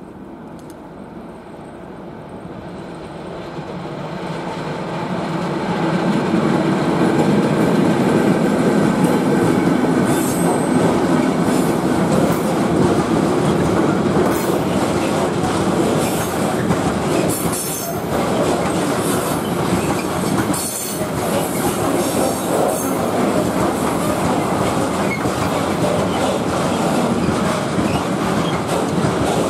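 Freight train of covered hopper wagons approaching and passing at close range. The rumble builds over the first six seconds, then holds as a steady run of wagons, with repeated sharp clacks and brief screeches from the wheels on the rails.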